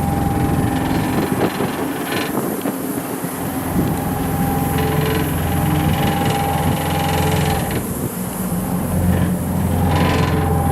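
Mitsubishi Fuso Canter's 3-litre turbo-diesel engine running at idle, a steady low hum that grows fuller about nine seconds in.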